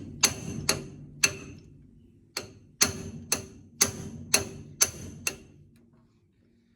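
Hammer blows on a rusted steering part of a 1960 Chevrolet Impala, each strike ringing. Three hits, a short pause, then seven more at about two a second, trying to knock the seized part free.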